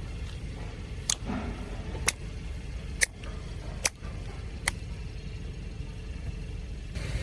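Car running slowly with a low steady rumble, broken by five sharp clicks about a second apart.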